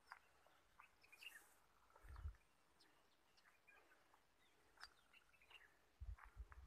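Near silence of open countryside with faint, scattered bird chirps, and brief low rumbles about two seconds in and again near the end.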